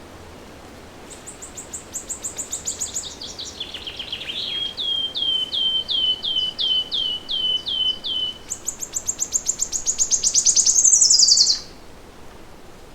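A songbird sings one long song over a steady background hiss. It opens with a fast high trill that steps down into a row of clear slurred notes, about two a second, then breaks into a quicker, louder high trill that rises and stops abruptly.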